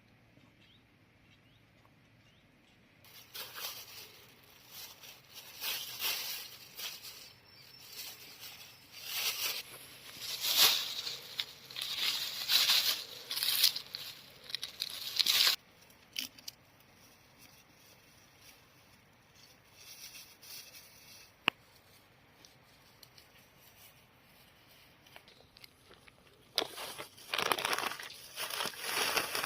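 Irregular bursts of rustling and crinkling, with a long quieter stretch in the middle broken by a single sharp click.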